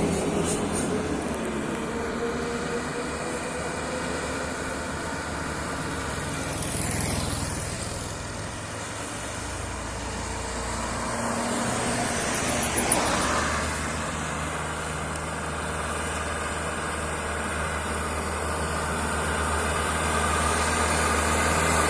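Road traffic on a steep climb: a truck engine running steadily low, with two louder swells as vehicles pass, about seven seconds in and again around twelve to thirteen seconds in.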